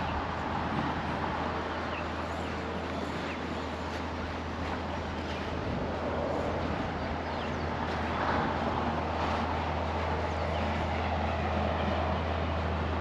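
Steady road-traffic noise from vehicles on a nearby highway, with a few short, high bird chirps scattered through it.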